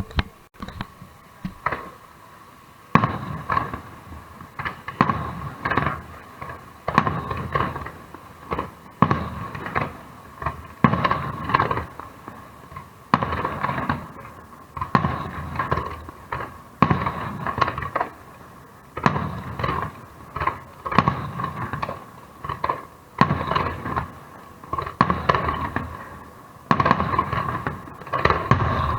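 Aerial fireworks display, shells bursting one after another at about one a second, each bang trailing off before the next.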